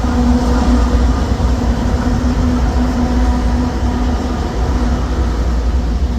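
Amtrak Siemens Charger diesel locomotive passing, its engine giving a steady pitched hum that slowly fades over a deep, constant rumble.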